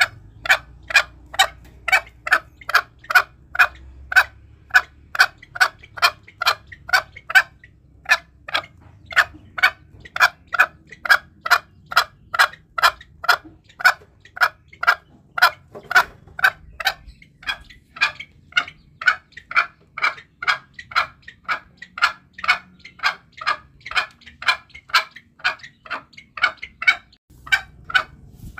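Green junglefowl giving a long, even run of short, sharp calls, about two a second, with a brief pause near eight seconds in and again near the end.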